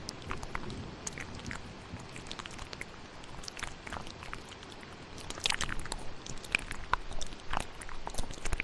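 Close-up ASMR mouth sounds, wet clicks and smacks, layered over steady rain. The clicks grow louder and come more often about five seconds in.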